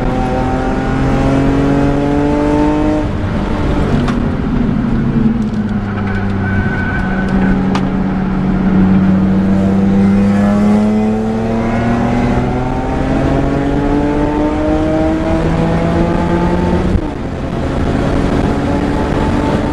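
BMW E46 M3's 3.2-litre straight-six with a Supersprint exhaust, heard from inside the cabin under hard track driving. The revs climb, fall back around four seconds in, then rise steadily through a long pull before a quick SMG upshift about seventeen seconds in drops the pitch, and they climb again.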